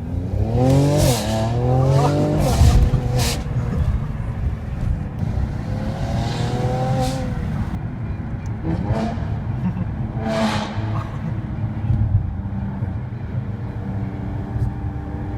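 Car engine revving: the pitch climbs sharply twice in the first couple of seconds, settles to a rumbling idle, and rises and falls again in the middle.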